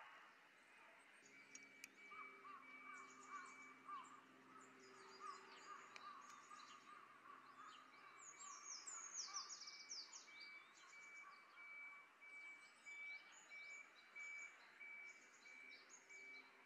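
Faint, high chirping calls of small birds, coming in quick runs through most of the stretch, over a very quiet background with a faint steady hum and a thin repeated tone.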